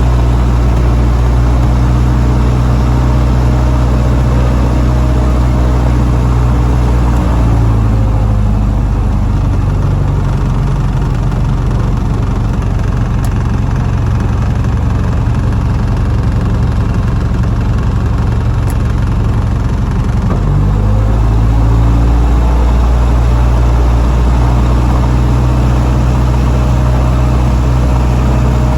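Light aircraft piston engine running rough. Its note changes about seven seconds in and settles back to the first note about twenty-one seconds in.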